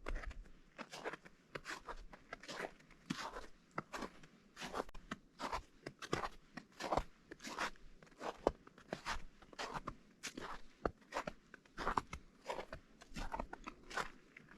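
Footsteps crunching on partially melted, granular spring snow at a steady walking pace, about two crunches a second, starting abruptly.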